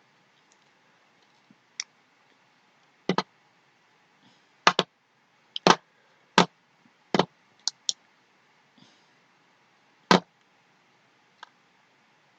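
Scattered clicks at a computer keyboard and mouse: about ten short, sharp clicks, some single and some in quick pairs, with pauses between.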